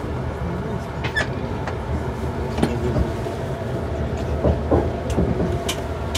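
Passenger train in motion, heard from inside the carriage: a steady low rumble of wheels on the track, with scattered sharp clicks and knocks from the carriage.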